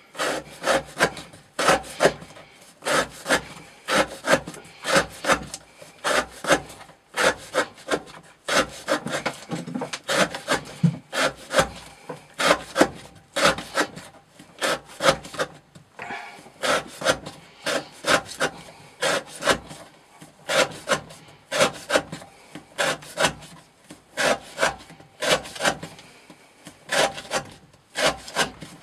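Knife blade slicing through rope in a steady run of rasping strokes, about two a second, as in a rope-cutting edge-retention test.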